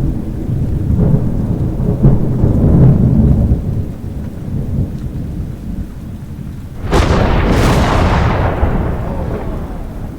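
Thunderstorm: low rolling thunder over rain, then a sharp thunder crack about seven seconds in that rumbles away.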